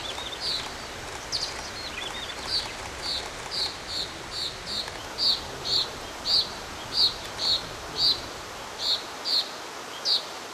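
A wild bird repeating a short, high call note about twice a second, over a steady background hiss. A second, softer bird's curling notes are heard in the first couple of seconds.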